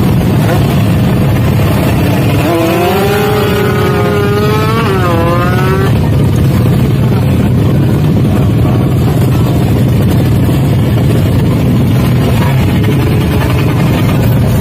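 Motorcycle engine running loudly and steadily. From about two and a half to six seconds in, a pitched sound wavers and bends up and down over it.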